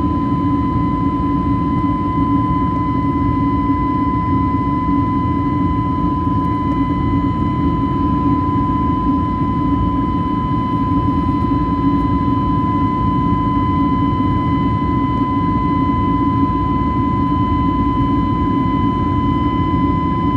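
Airbus A321neo jet engines heard from inside the cabin, a steady low roar with a constant high whine over it.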